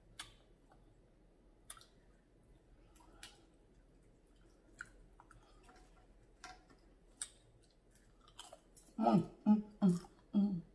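Close-up chewing of bacon: scattered short mouth clicks and smacks every second or so. Near the end come a few short voiced sounds, the loudest part.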